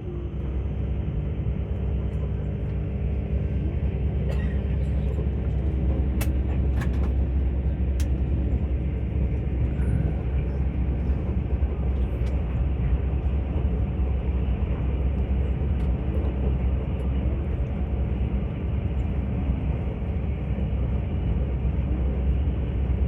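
Steady low rumble of a moving passenger train heard from on board, with a few sharp clicks about six to eight seconds in.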